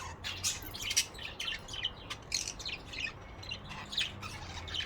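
Pet budgerigars chirping and chattering, with many short, high, rapid calls.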